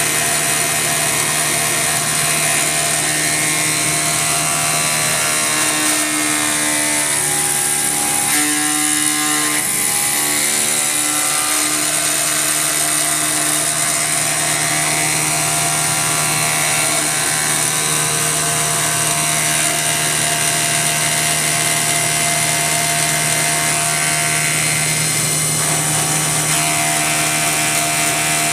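CNC milling machine with a belt-drive spindle, cutting steadily with an insert roughing cutter under heavy load at a raised spindle speed. The cutting tone holds steady, with its pitch wavering about a quarter of the way in.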